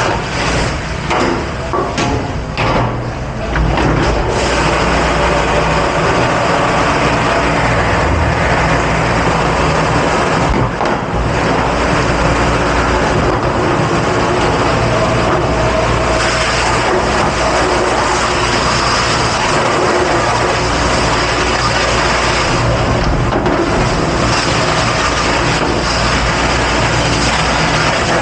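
Loud, steady rushing noise of a commercial dish pit at work, with a few brief clatters in the first few seconds.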